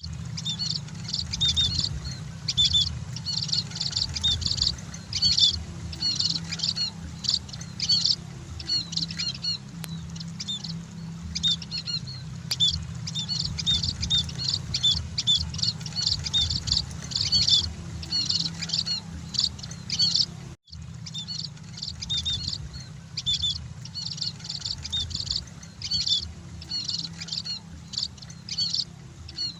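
Emprit (munias, small Lonchura finches) chirping in quick high-pitched bursts, call after call, over a steady low hum. The sound cuts out for a moment about two-thirds of the way through.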